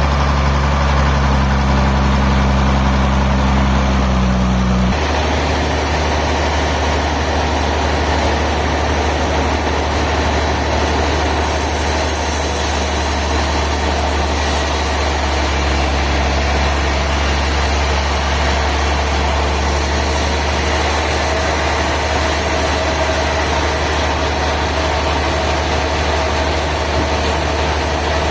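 Engine running steadily at low speed. About five seconds in its note drops, then it holds steady.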